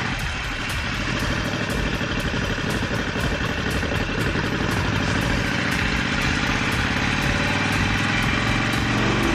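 Harley-Davidson Sportster 48's 1200 cc V-twin engine running on the move, with a steady rush of noise over it. There is a brief dip just after the start, then the engine note climbs gradually through the second half as the bike accelerates.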